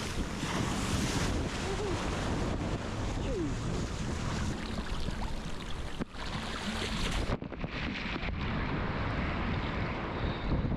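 Ocean surf rushing and breaking, with wind buffeting the microphone. About seven seconds in the sound suddenly turns duller, losing its high end.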